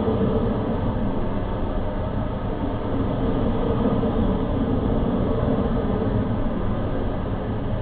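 Electric train of the Yokosuka Line running past the level crossing: a steady, loud rumble.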